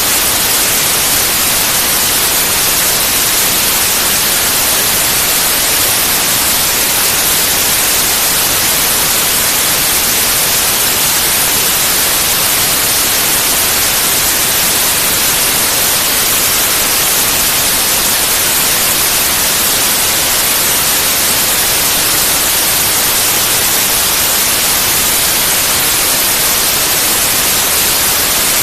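Pure white noise: a loud, steady, unchanging hiss, brightest in the high range, with no breaks or changes.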